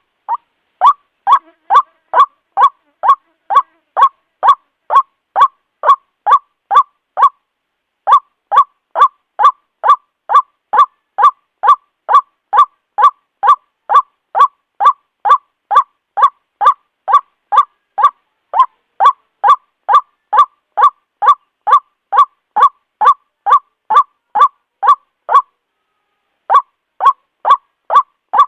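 White-breasted waterhen (Amaurornis phoenicurus) giving its ruak-ruak call: a loud, fast train of identical short notes, about three a second, breaking off briefly about seven seconds in and again near the end. It is a lure recording, played to draw waterhens in.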